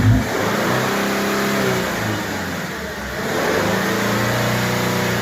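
Freshly rebuilt Subaru FB25 flat-four engine, warmed up, revved twice with the throttle: the revs rise, settle back, then rise again and hold near the end.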